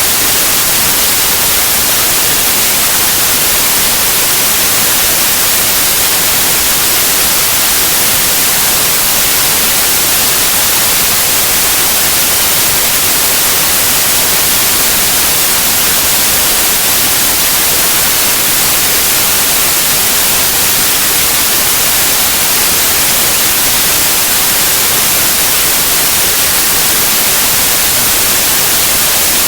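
Steady, unchanging white noise: an even hiss across all pitches, brightest in the highs.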